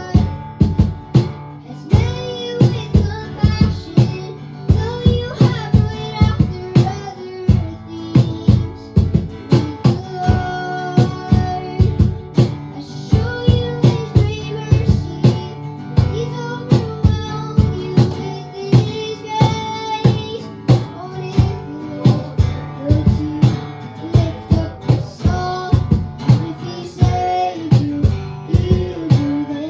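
Live worship band playing a song: a steady drum beat under guitar, with singers' voices over the top.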